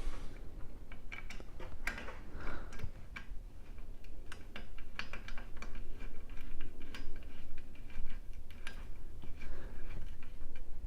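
Irregular small clicks and clinks of screws, metal parts and hand tools being handled while assembling a 3D printer kit.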